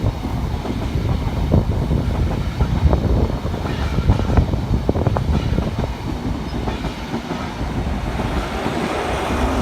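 Intercity 125 HST train passing at speed, its Mark 3 carriage wheels clattering over the rail joints with a continuous heavy rumble. Near the end a steady engine tone builds as the rear Class 43 diesel power car comes through.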